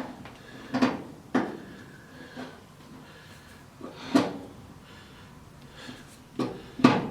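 A few separate sheet-metal clunks and knocks as the furnace's cover panel and hardware are handled during reassembly.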